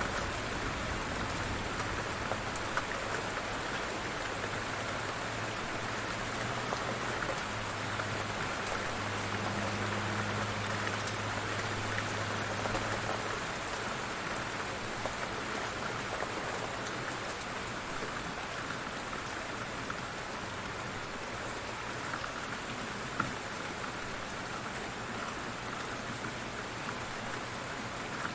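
Light rain falling steadily, with scattered individual drips ticking out of the patter and one sharper drip about two-thirds of the way through. A low steady hum sits under the rain for the first half and then fades out.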